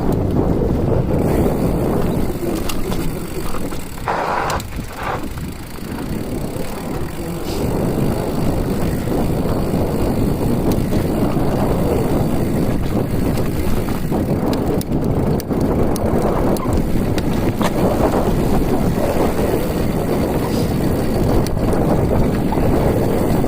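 Wind buffeting the microphone over a steady rumble from a moving ride. Two brief higher-pitched sounds come about four to five seconds in.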